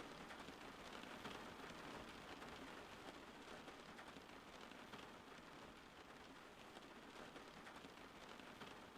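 Faint, steady rain: an even hiss of falling drops.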